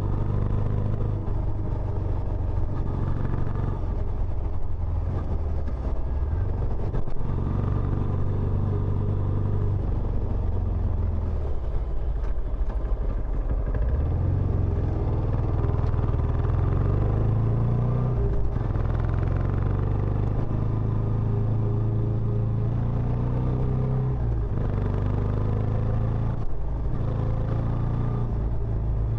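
Benelli Imperiale 400 single-cylinder engine running through its stock exhaust, a steady low note whose pitch steps up and down several times.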